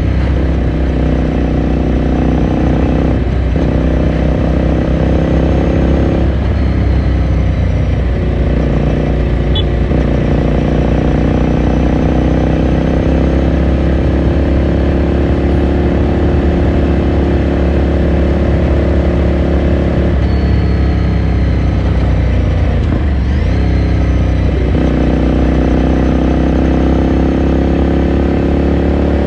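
Ducati Scrambler Sixty2's air-cooled V-twin heard onboard while riding, the exhaust note climbing slowly with engine speed. Gear changes break the note a few times.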